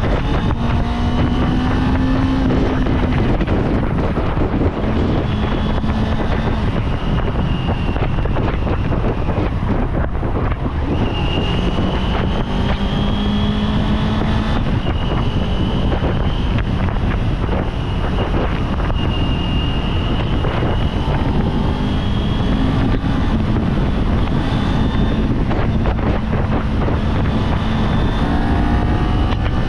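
Kawasaki Z400 parallel-twin motorcycle engine running under way, its note rising and falling several times with throttle and gear changes, with wind rushing over the microphone.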